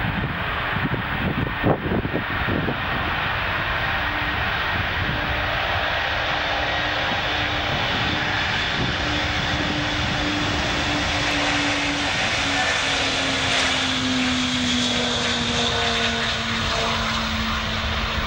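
Antonov An-225 Mriya's six turbofan engines running with a steady rush, and a low hum in the sound sliding slowly down in pitch through the second half. A few knocks in the first two seconds.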